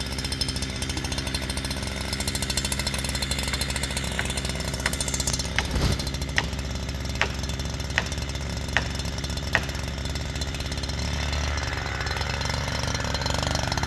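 Chainsaw engine running steadily while cutting, with a row of about eight sharp knocks a little under a second apart in the middle.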